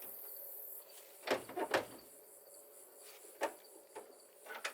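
Short metallic knocks and clicks from the hood and hood latch of a 1969 Ford F-250 being worked: a quick cluster of three about a second in, then single clicks spaced about half a second to a second apart.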